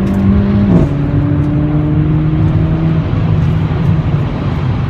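Mercedes-AMG CLA45's turbocharged 2.0-litre four-cylinder engine under way while driving, its pitch rising slightly and then dropping sharply just under a second in, as on an upshift, then running steadily over road noise.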